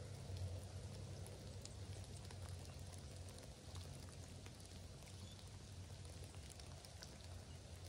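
Light rain: scattered drops ticking irregularly over a faint even hiss, above a steady low rumble.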